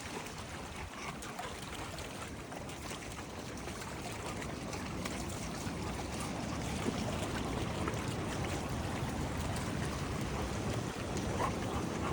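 Steady rushing of water, beach surf and running water, slowly growing a little louder.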